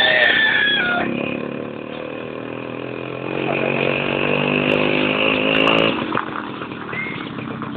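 Motorcycle engine of a Philippine tricycle (motorcycle with sidecar) running under way, rising in pitch as it revs up from about three seconds in and dropping off suddenly near six seconds. A rooster's crow trails off in the first second.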